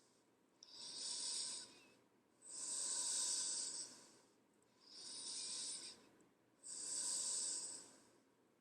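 A person breathing slowly and audibly, four long breaths in and out, each lasting a second or more, with short silences between them.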